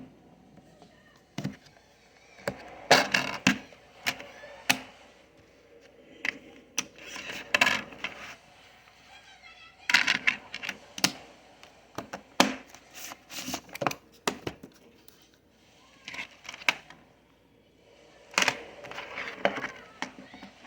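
Irregular clicks and knocks of hard objects being handled, some single and some in quick clusters.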